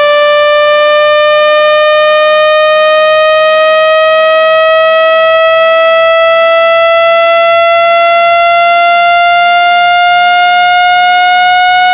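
Synthesized buzzy test tone with many overtones, held at a constant loud level and rising slowly and smoothly in pitch. It is a speaker-cleaning tone, played to vibrate water and dust out of a phone's speaker.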